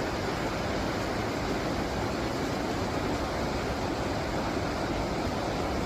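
Steady rushing of a river, an even wash of water noise with no change.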